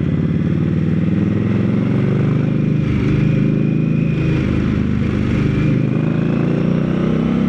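Indian Scout Rogue's V-twin engine running through a Jekill & Hyde aftermarket exhaust, its pitch rising and falling a few times as the bike moves off and slows at low speed.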